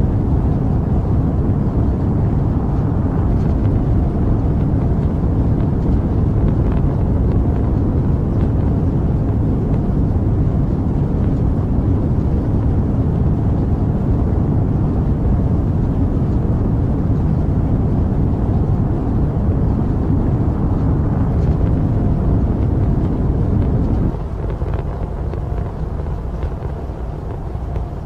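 Rocket engines rumbling steadily, the sound deep and low. Near the end it suddenly drops quieter and duller.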